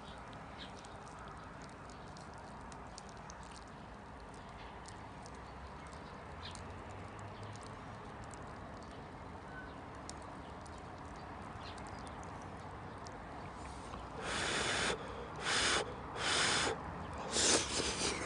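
Campfire crackling faintly with scattered small snaps over a low steady background, then four short, loud hissing rushes near the end.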